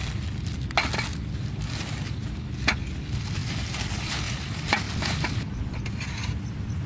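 Three sharp knocks, about two seconds apart, over a steady low rumble.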